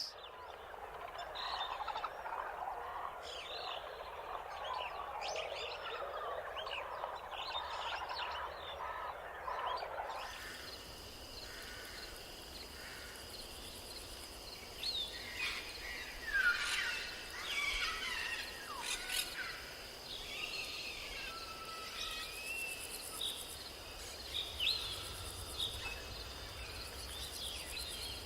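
A dense chorus of short wild chirps for about ten seconds, then an abrupt change to scattered bird calls over a steady, high insect drone.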